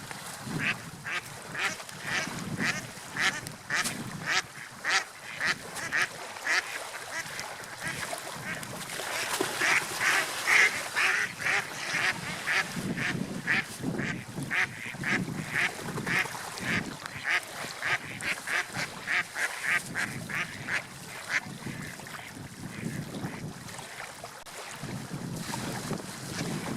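Seagulls calling in a rapid series of short, repeated cries, about two or three a second, that die away near the end, over the low rush of sea waves.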